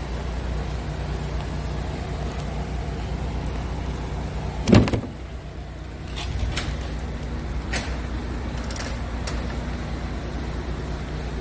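Scania R tractor unit's diesel engine idling steadily. There is one loud thump just before the halfway point, then several short clicks.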